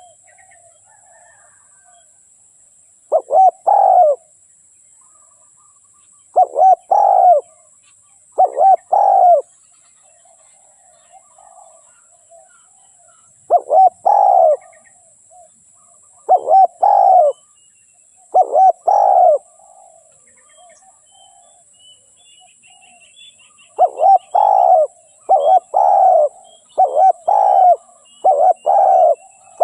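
Spotted dove cooing: short phrases of deep coos repeated every few seconds, with pauses between groups and a faster run of phrases in the last several seconds. Faint chirps of small birds sound between the phrases.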